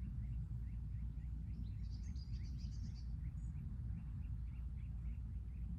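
Wind rumbling on the microphone, with birds chirping: short chirps repeating about two to three times a second, and a brief higher twittering phrase about two seconds in.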